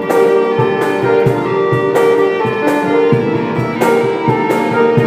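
Band playing an instrumental passage between rapped lines: held melodic notes over guitar and a steady drum beat.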